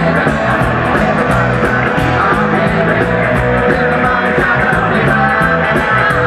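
Rock music: a rock song with electric guitar, a steady drum beat and a sung voice.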